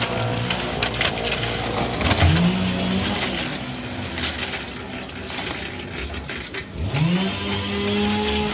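Construction-site noise: a steady clattering din with scattered knocks and rattles. Twice a motor spins up quickly to a steady whine and holds, the second time winding down near the end.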